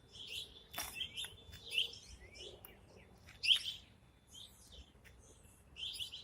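Small birds chirping: short, scattered high calls, the loudest a little past halfway through.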